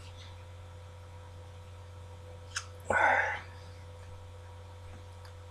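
Steady low electrical hum of room tone, broken about three seconds in by a faint click and then a brief breathy burst from the person at the microphone.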